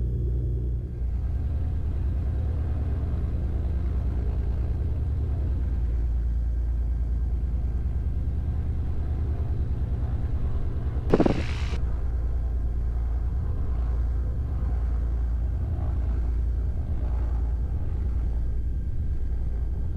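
Steady low drone of a Beechcraft Baron B55's piston engines idling on the ground, with one brief sharp sound about eleven seconds in.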